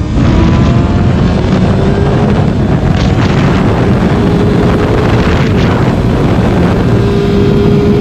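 Kawasaki ZX6R inline-four engine running under way, its pitch climbing in long slow rises, heavily buffeted by wind noise on the microphone.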